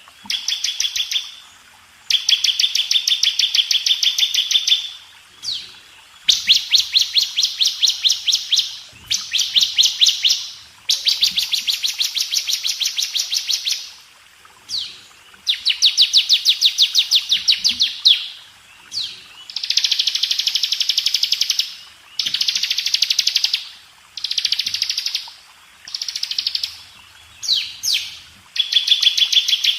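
Bar-winged prinia (ciblek) singing: bursts of very rapid, dense trills of quickly repeated high notes, each lasting one to three seconds with short pauses between them, and a few quick sweeping notes in the gaps.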